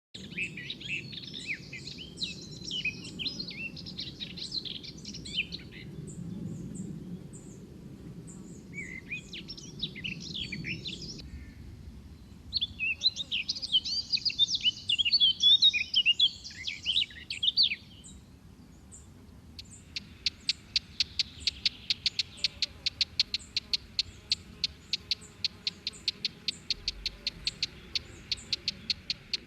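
Songbirds singing in bursts of quick, varied chirps, then a long run of sharp repeated notes at about five a second.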